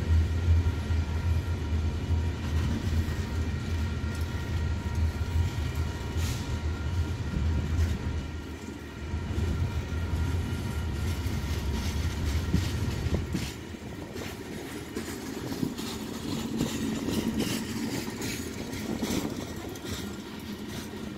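Coal cars of a freight train rolling past with a deep rumble that eases off about two-thirds of the way in. Wheels click over the rail joints, with rattling from the cars.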